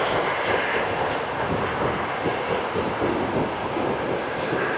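Passenger sleeper train running along the track: a steady, even noise of the moving carriage and its wheels on the rails.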